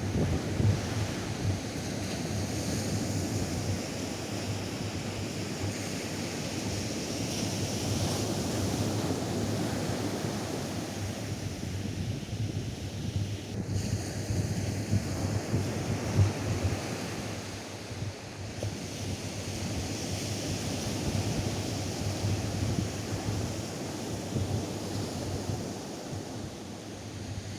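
Atlantic surf breaking and washing up a sandy beach, its hiss swelling and easing, with wind on the microphone adding a steady low rumble.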